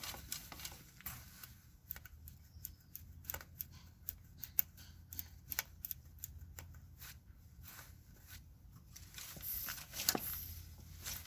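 A series of small, irregular clicks and taps over a faint low hum.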